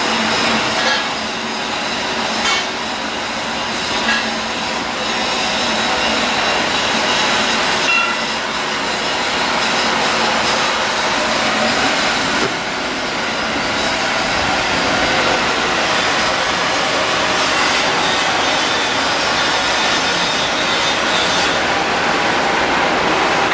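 Steady loud din of shipyard steelwork and machinery, with a few sharp metallic knocks in the first several seconds.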